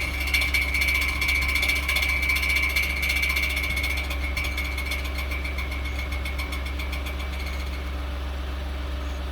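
2018 Ford F-150's 3.5 L EcoBoost twin-turbo V6 idling after a cold start, with a high whine and rapid ticking over the steady engine rumble. The whine and ticking fade away over the last few seconds while the idle carries on.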